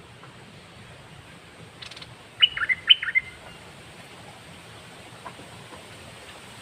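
Caged red-whiskered bulbul singing one short, loud phrase of quick whistled notes about two and a half seconds in, just after a faint raspy call.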